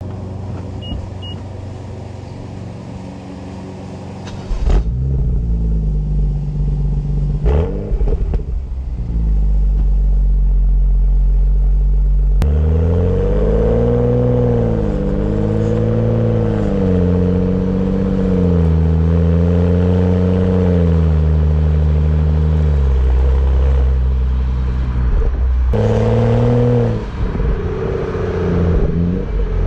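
BMW F30 335i's turbocharged 3.0-litre inline-six heard through its stock exhaust while driving. The engine note rises and falls in pitch with engine speed under acceleration and gear changes, and changes abruptly a few times.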